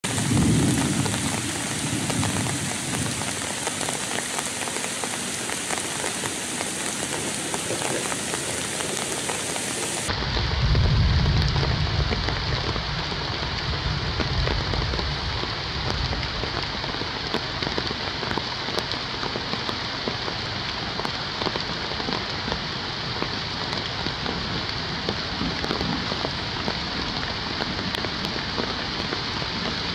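Steady rain falling, with many small drop ticks; the sound turns duller abruptly about ten seconds in.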